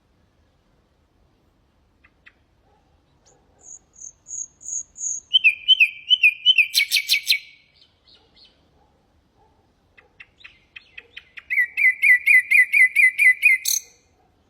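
Nightingale singing two song phrases. The first is a short row of high clear whistles, then repeated notes ending in a fast rattle. After a pause comes a quick run of repeated notes, about four a second.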